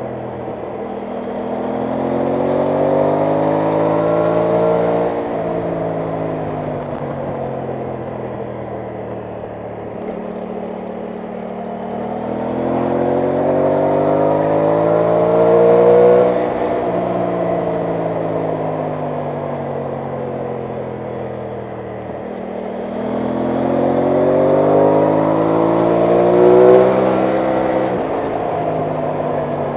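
Aprilia Tuono 660 Factory's parallel-twin engine on the move, three times pulling up through the revs with a rising pitch, then dropping abruptly at a gear change and easing off.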